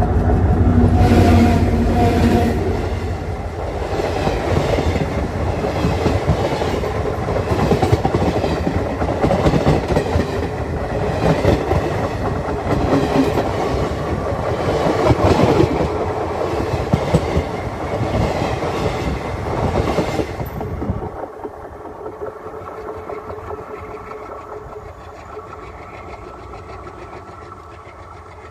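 A diesel locomotive and its train of wagons passing right over the microphone, which lies between the rails: a loud rumble with a regular clatter of wheels over the rail joints. About 21 seconds in the last wagon clears and the sound drops suddenly to a quieter rumble that fades as the train moves away.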